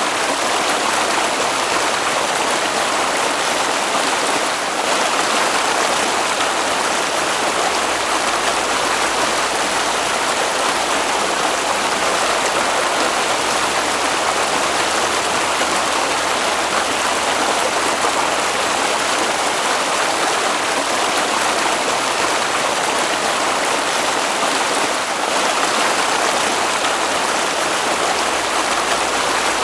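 Steady, unbroken rush of flowing water, like a stream running over stones.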